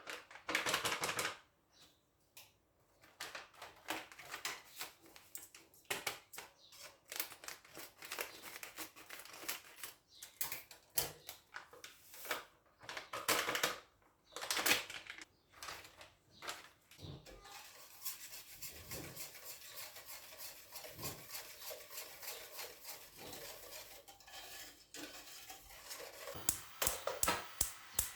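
Kitchen utensils and dishes clattering and clicking irregularly during food preparation. About two thirds of the way in the clatter gives way to a steadier hiss-like noise, and clicks return near the end.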